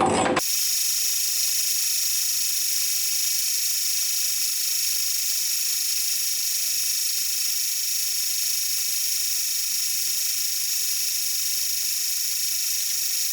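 A brief clatter of metal cutting stops abruptly just after the start. A steady high-pitched machine whir and hiss follows, with no rhythm or change in it.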